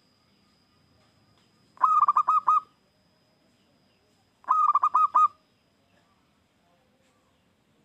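Zebra dove (perkutut) cooing: two short phrases of quick, pitched notes, about two and a half seconds apart, then a pause.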